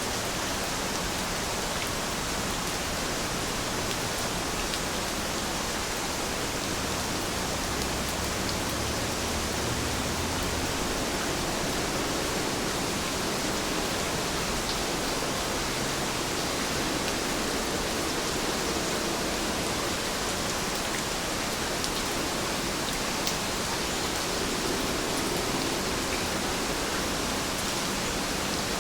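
Steady rain falling, an even hiss with a few faint drop ticks and no change in level.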